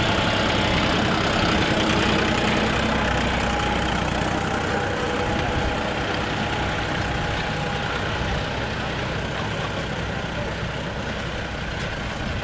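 John Deere 5405 tractor's common-rail diesel engine running steadily, easing slightly in level about halfway through.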